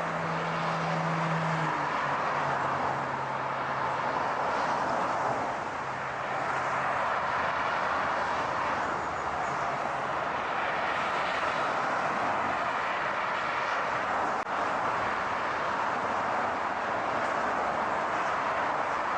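Car noise: a steady roar of moving traffic or road noise, with a low engine hum that drops in pitch about two seconds in and fades away by about ten seconds.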